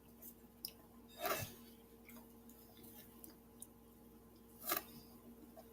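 Quiet mouth sounds of someone tasting gelatin-based edible slime: faint wet clicks and chewing, with two brief louder noises about a second in and near the end.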